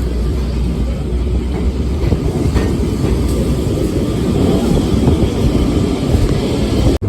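Lisbon Tram 28's electric streetcar running along its rails, heard from aboard as a steady, loud rumble of wheels on track.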